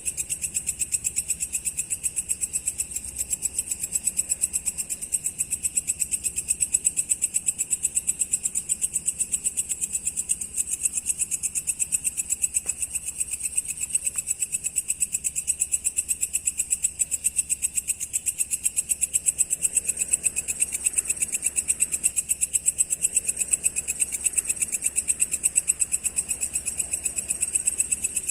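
Crickets chirping: a high-pitched pulsing trill in a fast, steady, unbroken rhythm.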